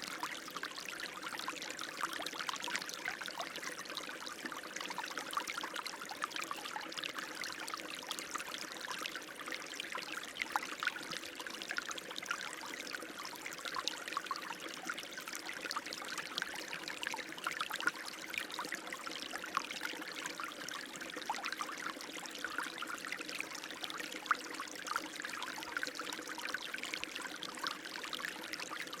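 Running water flowing and trickling steadily, with many small splashes throughout.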